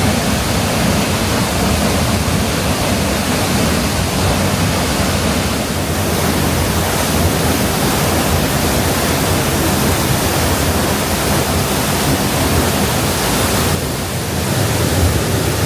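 Steinsdalsfossen waterfall in full spate from heavy rain, heard up close from the path behind it: a loud, steady rush of falling water.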